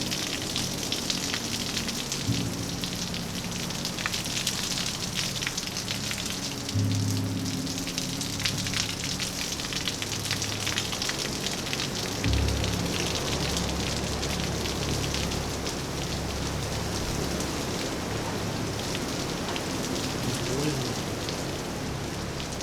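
Steady rain falling and pattering on surfaces, with many close individual drop ticks. Underneath it runs a low steady musical drone that moves to a new note every few seconds.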